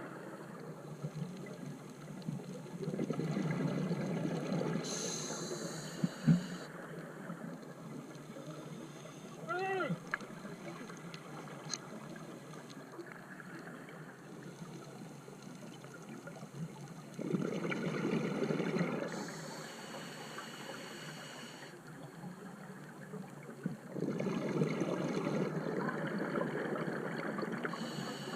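A scuba diver breathing through a regulator underwater, three breaths in all. Each exhalation is a long burst of bubbling, followed by the hiss of the regulator as the next breath is drawn. A sharp click comes after the first breath.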